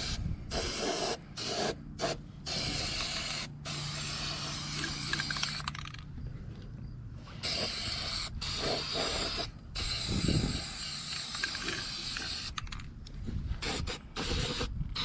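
Aerosol spray paint can hissing in repeated bursts with short breaks between them, a longer pause about six seconds in.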